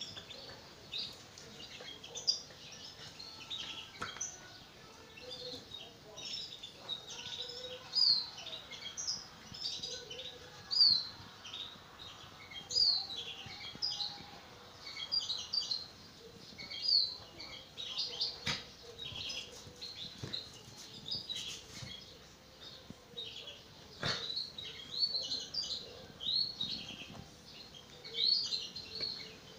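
Small birds chirping over and over, short high falling chirps coming every second or so, with a few sharp knocks now and then.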